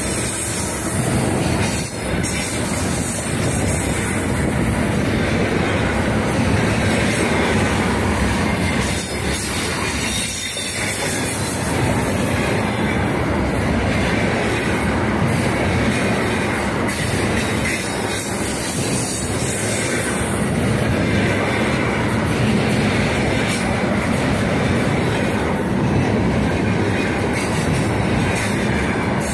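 Loaded container freight wagons rolling past at close range: a steady rumble and clatter of steel wheels on the rails, with occasional knocks.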